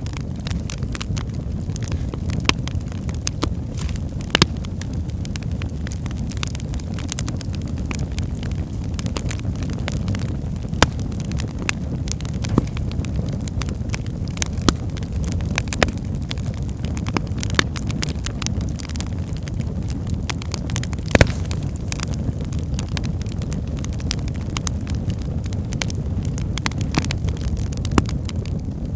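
Wood fire burning in a fireplace: a steady low rumble of flames with scattered sharp crackles and pops from the logs, the loudest pop about two-thirds of the way through.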